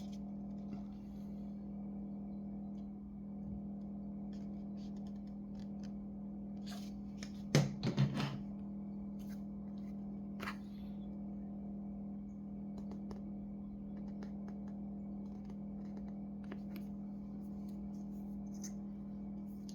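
Small clicks and taps of hands working on an open laptop with small tools and parts, over a steady low hum; a short run of louder clicks and knocks comes about seven and a half seconds in.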